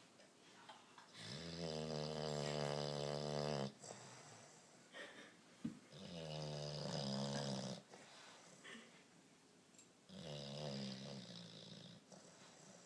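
Sleeping bulldog snoring: three long, buzzing snores about four seconds apart, the last one shorter.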